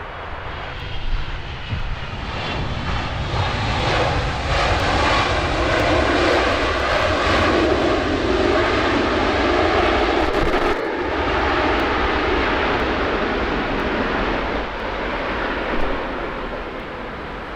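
Jet airliner passing close by: its engine roar swells over the first few seconds, holds loud, and eases slightly near the end, with a momentary dropout about eleven seconds in.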